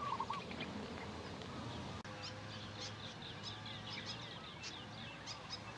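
Birds giving many short, high chirps, thickest in the second half, over a faint steady background. A brief wavering call comes right at the start.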